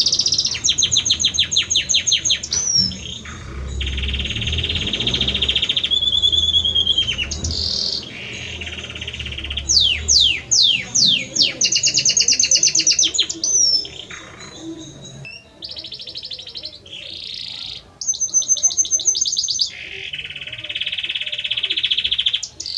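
Male Belgian canary singing a long, continuous song of rapid trills and rolls, switching from one phrase to the next every second or two, with a few quick falling whistles about ten seconds in.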